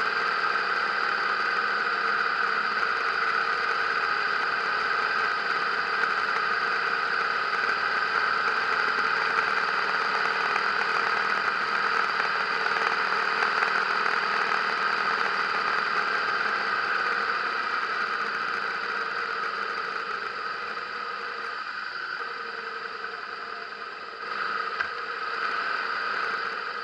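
Harley-Davidson motorcycle engine running steadily at road speed, heard from the bike with wind noise; the sound eases off somewhat over the last few seconds, with a short rise just before the end.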